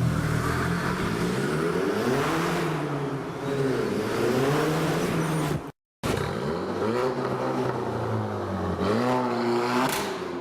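Tuned Golf 6 GTI 2.0 TFSI turbocharged four-cylinder engine revving, its pitch rising and falling several times, recorded through a phone microphone. There is a brief dropout about halfway through.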